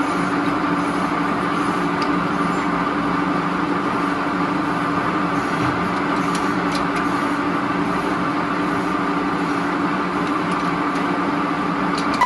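Steady drone of industrial machinery running, an unchanging hum with a constant low tone and a higher whine.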